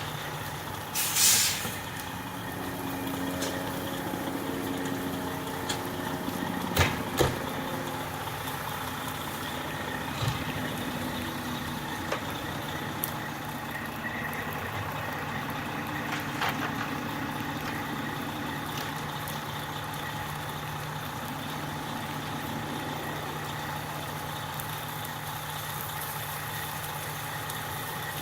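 Fire engine running steadily, with a short loud hiss of air brakes about a second in and two sharp knocks around seven seconds.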